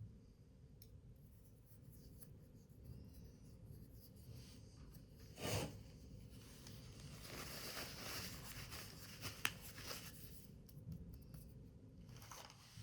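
Paper being handled, rubbed and creased by hand, with a short louder scrape about halfway through, a stretch of busier rustling after it, and a sharp click near the end.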